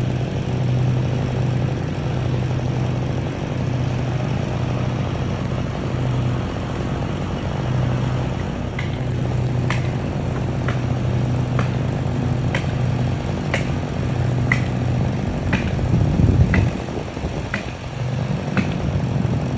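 An engine running steadily at a constant speed. About halfway through, sharp ticks start and repeat about once a second.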